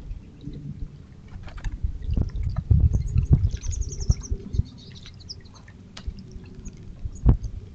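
Small birds chirping in short high twitters, clustered about halfway through, over louder uneven low rumbling and scattered knocks. One sharp knock comes near the end.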